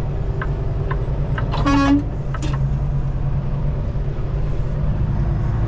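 Semi truck's diesel engine running steadily, heard from the cab. A vehicle horn gives one short toot a little under two seconds in.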